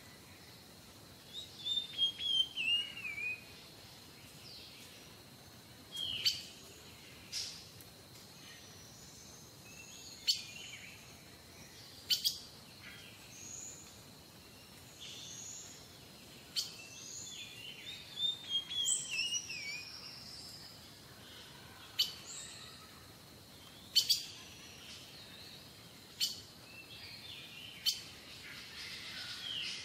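Small wild birds chirping and calling on and off, in scattered short phrases of quick descending chirps. A sharp, click-like note stands out every few seconds.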